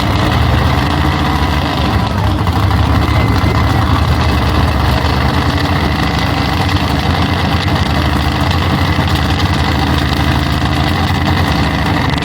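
Big-block Ford V8 of a pulling vehicle running loud and steady at a high idle, warming up before its hook.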